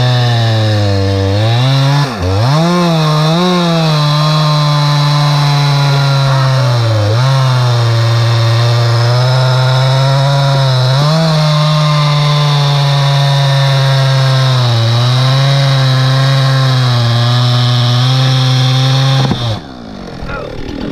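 Two-stroke chainsaw running at high revs under load, cutting wood, its pitch dipping briefly several times as the chain bogs in the cut. Near the end the engine note drops away suddenly.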